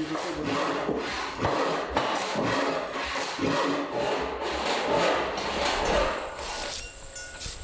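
A hand tool working green wood in repeated scraping strokes, about two a second, stopping near the end.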